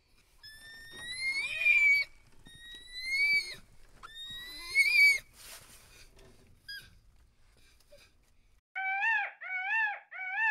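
Animal calls: three rising, whistle-like cries about a second apart, then, after a pause, three short arched calls of lower pitch in quick succession near the end.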